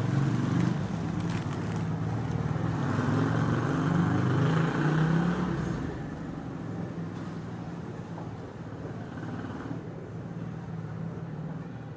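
A motor vehicle's engine running, its pitch rising and falling; it is loudest in the first half and fades from about six seconds in.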